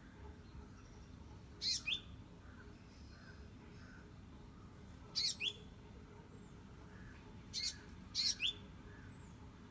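Small bird calling: short, sharp, high chirps in three clusters of two or three, about two to three seconds apart.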